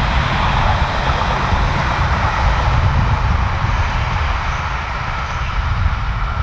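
A train passing on the mainline: a steady, loud rumble and rush of wheels on rails.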